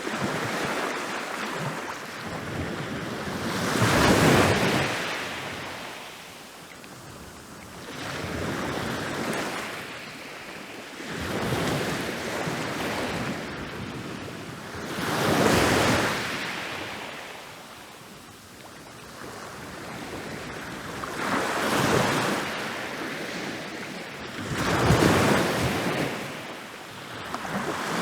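Ocean waves rolling in and breaking on a beach, the surf rising and falling in repeated swells every few seconds. The loudest breaks come at about 4, 15, 22 and 25 seconds in.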